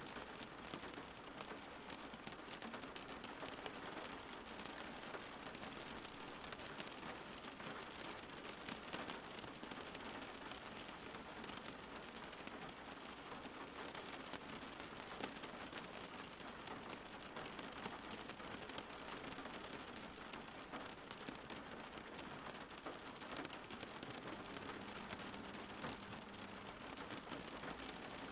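Steady rain falling on a surface, an even patter with many individual drops ticking through it.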